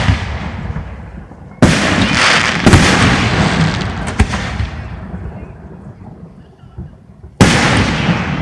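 Aerial fireworks bursting: a loud boom about a second and a half in and another near the end, each fading slowly over several seconds, with a couple of sharper bangs in between.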